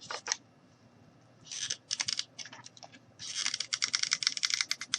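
Hot glue gun in use with a honey-coloured glue stick: scattered sharp clicks and rattles, then a fast run of clicks, about a dozen a second, lasting under two seconds near the end, as the trigger is worked to push out glue.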